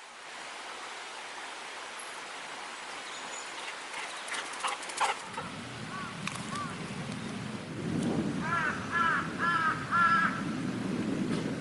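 Stream water running steadily, with a few sharp clicks just before halfway and a low rumble coming in around halfway. Near the end an animal gives four short, evenly spaced calls that rise and fall in pitch.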